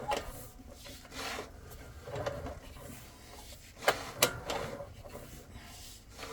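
Irregular rubbing and scraping with a few sharp clicks, two of them close together just before the middle.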